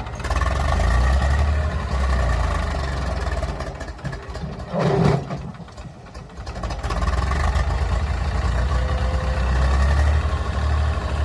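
Tractor diesel engine running hard as the stuck tractor tries to pull free. There is a short loud burst about five seconds in, then the engine drops away for a couple of seconds before picking up strongly again.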